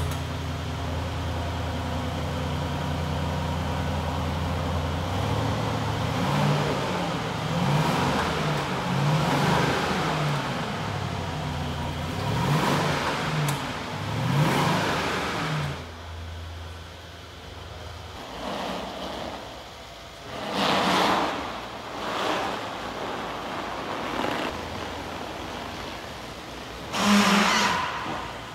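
Mercedes-Maybach S580's twin-turbo V8 idling with a steady low hum, then revved in about six quick blips that rise and fall. After about 16 s the engine is quieter, with a few short surges.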